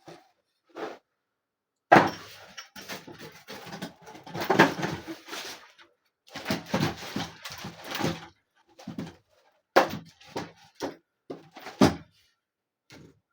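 A run of knocks, thuds and short scrapes from the table and its parts being handled and shifted, with brief pauses between them.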